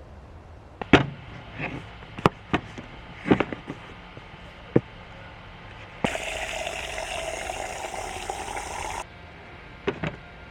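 A series of knocks and clicks, then water running from a tap for about three seconds, starting and stopping suddenly.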